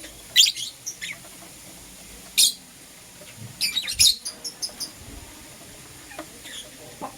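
Lovebirds chirping: short, shrill chirps in scattered ones and twos, with a quick run of chirps around four seconds in.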